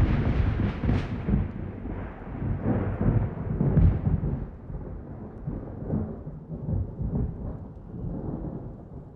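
Thunder rumbling: a loud, deep roll that starts suddenly, swells in several uneven peaks, then slowly fades away.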